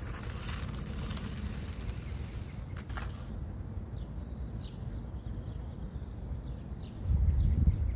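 Outdoor ambience: wind rumbling on the microphone, with a few faint bird chirps in the middle and a louder gust about seven seconds in.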